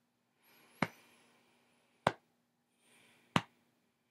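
Metronome clicking a steady slow beat: three sharp clicks about a second and a quarter apart.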